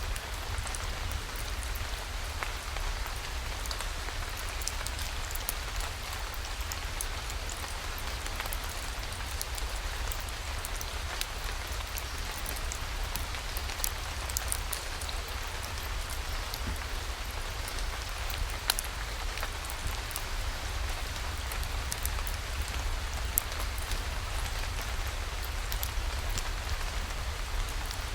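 Steady rain falling, with scattered sharp clicks and ticks throughout and a low rumble underneath.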